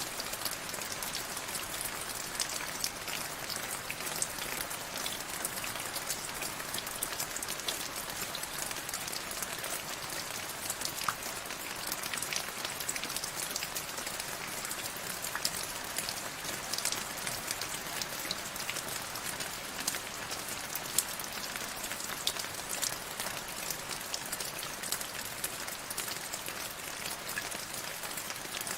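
Steady rain falling, a continuous hiss dotted with the sharp ticks of individual drops striking a surface.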